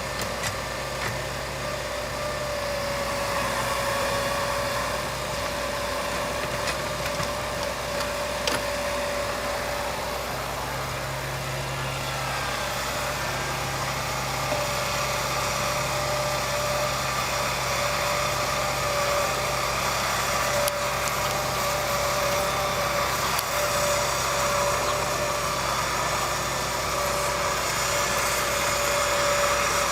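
A vehicle engine running steadily at idle, with a constant whine over its low running note.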